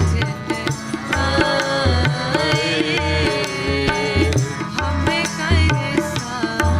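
Sikh kirtan devotional music: tabla keeps a beat with recurring deep bass strokes under a melodic line of held notes that waver and glide.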